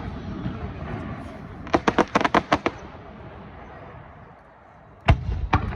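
Aerial fireworks shells bursting: a quick run of about eight sharp bangs around two seconds in, then two heavy booms near the end.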